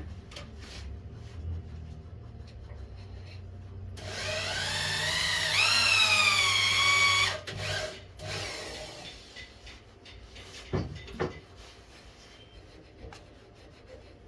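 A small electric power tool runs for about three seconds: its whine rises in pitch as it spins up, holds steady, then cuts off. Two sharp knocks follow a few seconds later.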